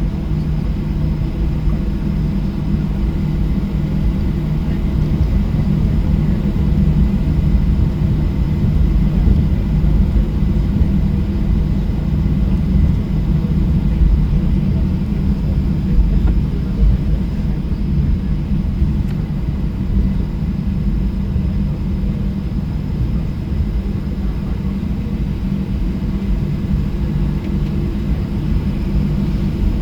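Boeing 737-800's CFM56-7B jet engines running at a steady setting, heard from inside the passenger cabin as a constant low rumble with a steady hum.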